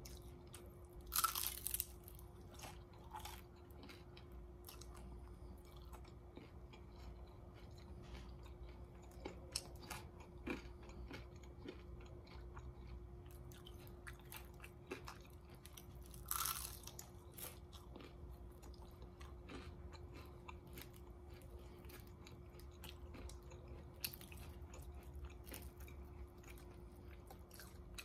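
Close-up chewing and crunching of a crisp, oven-baked vegetable egg roll, small crackles coming steadily as it is chewed. Two louder crunching bites, one about a second in and another about halfway through.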